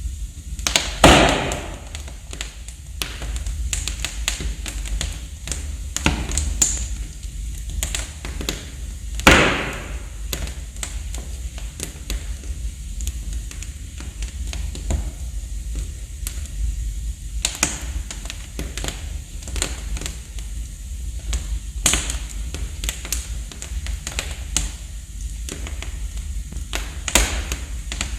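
Wood fire in a fireplace crackling: a steady run of sharp snaps and pops over a low rumble, with two louder pops, one about a second in and one about nine seconds in.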